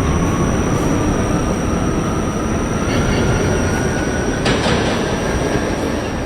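R68A subway train running on the track, rumbling, with a motor whine rising slowly as it picks up speed and a steady high-pitched ringing over it. A short sharp clatter from the wheels comes about four and a half seconds in.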